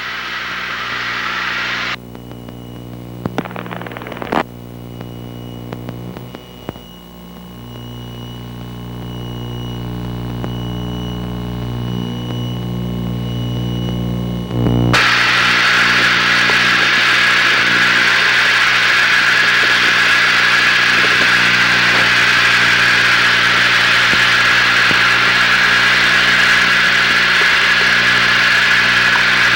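Steady drone of a light twin-engine plane's piston engines and propellers heard in the cockpit, with a few clicks, growing gradually louder. About halfway through it changes abruptly to a louder, steady rushing noise.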